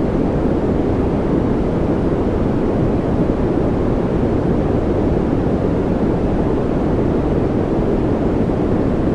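Steady noise from a continuous white-noise track, deep and rushing with most of its weight low and only a little hiss at the top, unchanging throughout.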